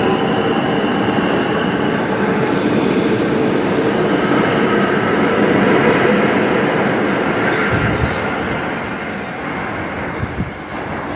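R142 subway train running out of the station, with steel wheels screeching against the rails and a steady whine over the rumble of the cars. The noise fades over the last few seconds as the train pulls away.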